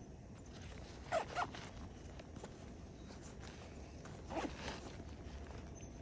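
Short scraping, rasping sounds of work on asphalt roof shingles: two quick scrapes about a second in and two more around four and a half seconds in.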